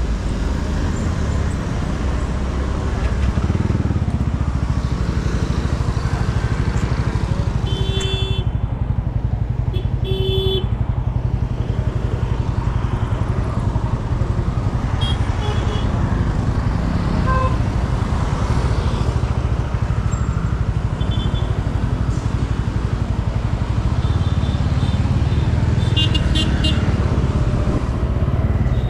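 Motorcycle engine running steadily while riding in traffic. Short vehicle horn toots about 8 and 10 seconds in, with a few fainter ones later.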